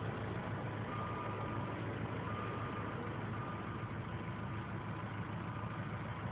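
2008 Kubota M108X tractor's diesel engine running at a steady idle. A faint high tone comes and goes above it about once a second.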